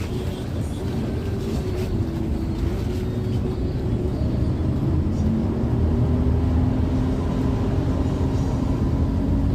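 Intercity bus running on the road, heard from inside the cabin as a steady low engine and road rumble. The engine note rises slowly through the second half.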